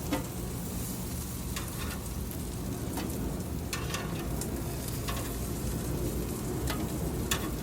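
Pork chops sizzling steadily on a hot grill, with a few sharp pops or clicks scattered through.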